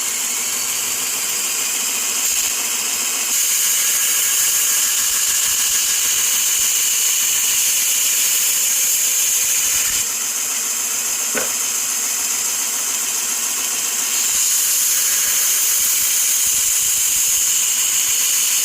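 Bucktool variable-speed 2-inch belt grinder running a 120-grit ceramic belt, with a hedge trimmer blade ground against it to set the final toothy edge. It is a steady, hissing grind that steps louder about three seconds in, eases off near the middle, and steps up again about fourteen seconds in.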